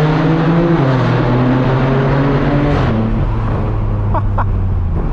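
BMW M4 F82's twin-turbo straight-six, breathing through a straight-piped AWE track exhaust, pulling hard under acceleration, heard from inside the cabin. Its pitch climbs, drops at a quick upshift about a second in, climbs again, then falls about three seconds in and runs on at a lower, steady note.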